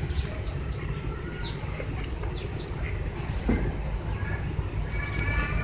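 Small birds chirping in short falling calls over a steady low rumble, with a faint held tone of several pitches coming in near the end.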